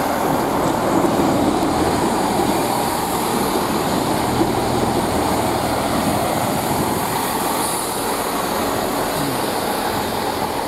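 Great Western Railway Class 165 diesel multiple unit pulling out and running past, its underfloor Perkins diesel engines and the coaches on the rails making a steady noise. The noise eases off slightly near the end as the last coach goes by.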